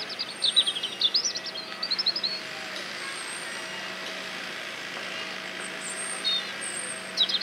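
A songbird singing a quick run of sweeping, chirping notes for the first two seconds or so, then two short bursts of chirps near the end, over a steady background hum.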